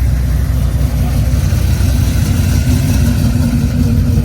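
Muscle car engine idling steadily, deep and low.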